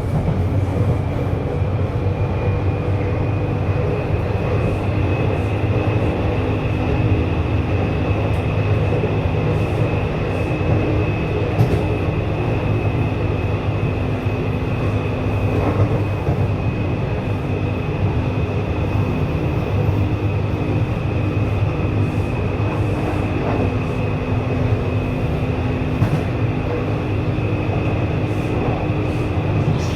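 Taipei Metro train running at steady speed between stations: a continuous low rumble of wheels on track with a high steady whine that rises slightly over the first couple of seconds, then holds.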